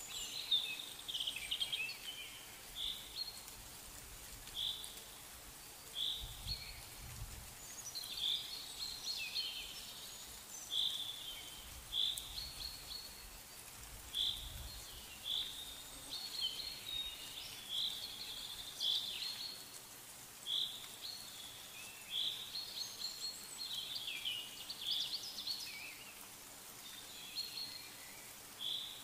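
Small birds chirping: short high chirps repeated every second or two, broken by brief bursts of twittering.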